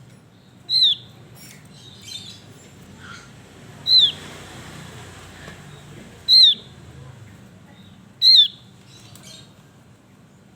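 Javan grey-throated white-eye (opior jawa) calling: four loud, short notes a couple of seconds apart, each sliding sharply down in pitch, with faint softer chirps between.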